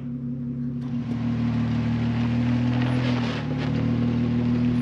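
Jeep engine running steadily at idle, a low even hum. A coarse, crackly noise joins it about a second in.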